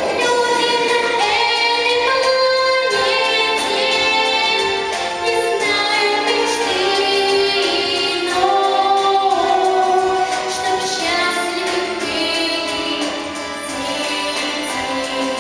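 A girl singing a song over instrumental accompaniment, holding notes with a wavering vibrato.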